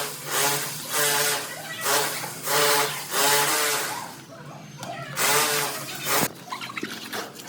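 Repeated rasping strokes, about one and a half a second, with a short break after about four seconds, then fainter scattered knocks.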